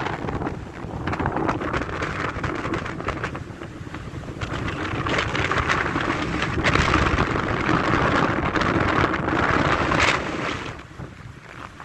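Wind buffeting the phone's microphone, gusting stronger and weaker, easing off near the end.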